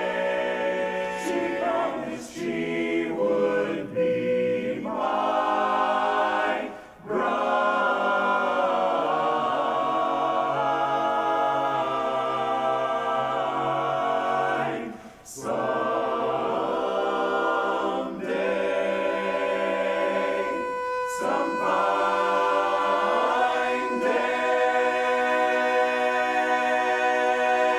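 Men's a cappella chorus singing the closing bars of the song in held chords, with brief breaks between phrases. It ends on a long sustained final chord that cuts off near the end.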